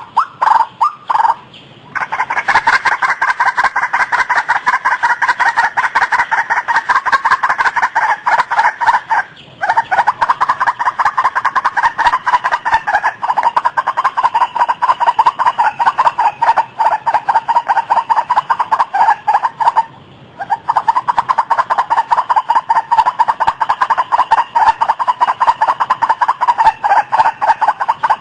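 Recorded white-breasted waterhen (ruak-ruak) calling: a long, rapid series of harsh, repeated notes. The series breaks off briefly about two seconds in, again about nine seconds in, and about twenty seconds in, then resumes each time.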